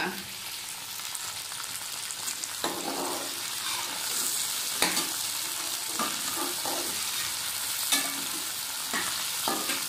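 Cut okra sizzling as it fries in hot oil in an aluminium pot, frying off its sliminess, with a metal spatula stirring and scraping against the pot about eight times at uneven intervals.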